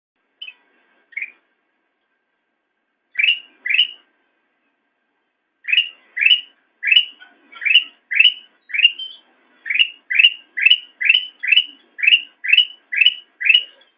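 Kutilang emas bulbul singing: short whistled notes, a few scattered ones at first, then a steady run of about two notes a second.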